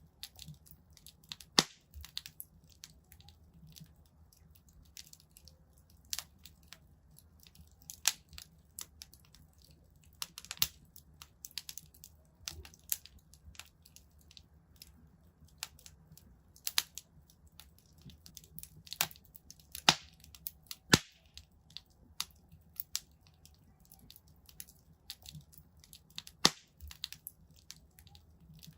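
Wood fire in a fireplace crackling: irregular sharp pops and snaps, a few of them much louder, over a faint low rumble of the burning.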